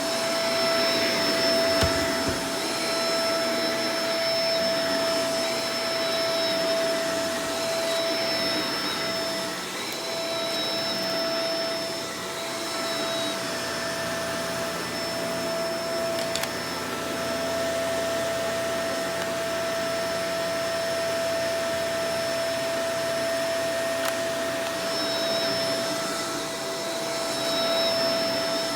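Shark Professional Powered Lift-Away DLX (NV586) vacuum cleaner running steadily: a continuous motor whine with a high steady tone over the rush of air, dipping slightly in loudness midway, with a small knock about two seconds in.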